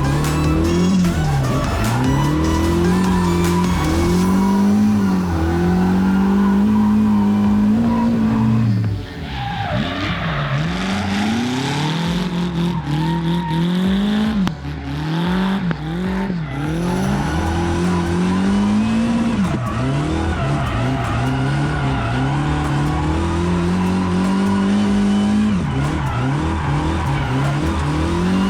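S63B44 4.4-litre twin-turbo V8 in a drift car, exhaling through a very short exhaust, revving up and falling back over and over as the car drifts, with tyres squealing and skidding. The engine briefly drops off about nine seconds in, and a spell of tyre squeal follows.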